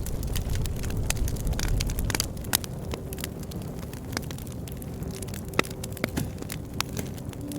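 Wood campfire crackling, with frequent sharp pops and snaps over a low rumble of burning flames that eases off about two seconds in.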